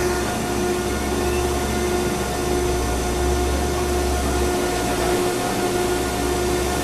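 Baling machine running: a steady mechanical hum with a tone that pulses on and off about once a second. The deep low rumble under it drops out about two-thirds of the way through.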